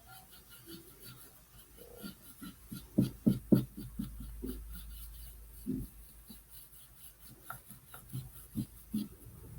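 Paintbrush scratching and tapping on a wooden birdhouse, in irregular strokes, with a cluster of louder knocks about three seconds in.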